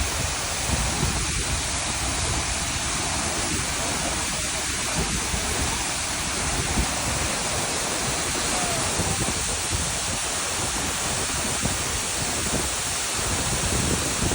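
Waterfall close by: a steady, dense rush of falling water.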